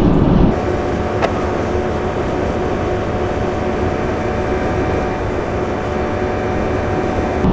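Steady road and engine noise inside a moving car's cabin, with a single short click about a second in.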